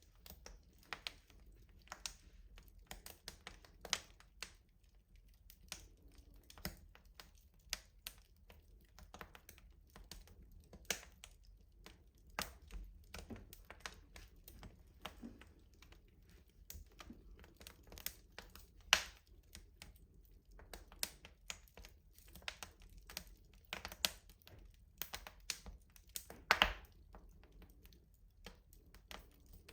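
Wood fire crackling in a rustic stove: a steady scatter of irregular sharp pops and snaps, with a few louder pops about two-thirds of the way through and near the end.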